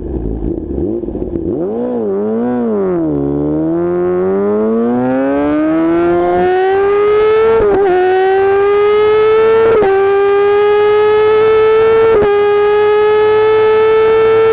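A 2014 Kawasaki Ninja ZX-10R's inline-four runs through a straight-piped Akrapovic exhaust. It idles, is blipped twice, then launches and pulls hard with its pitch climbing. Three quick quickshifter upshifts follow, each a brief dip before the pitch rises again.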